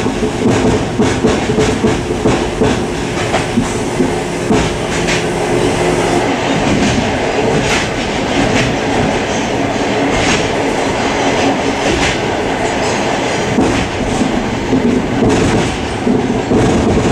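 Suburban train running along the line, heard from inside its vestibule: a steady rumble of wheels on rail, with repeated clicks as the wheels pass rail joints. A low hum under the rumble fades about six seconds in.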